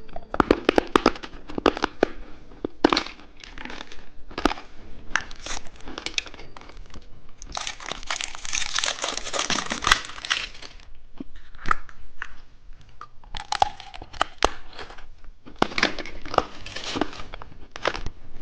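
Plastic candy packaging crinkling and tearing as it is handled and opened, in irregular crackly bursts, with a few seconds of continuous crinkling about halfway through.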